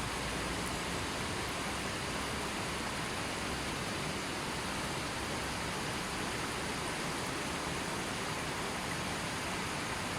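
River water flowing, a steady even rush with no birds or other sounds over it.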